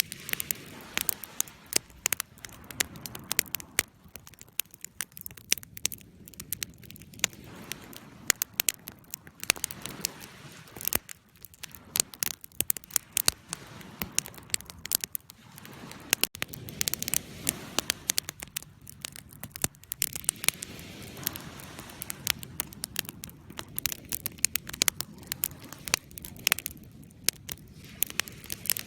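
Wood fire crackling: frequent, irregular sharp pops and snaps over a soft, steady low rumble of the burning.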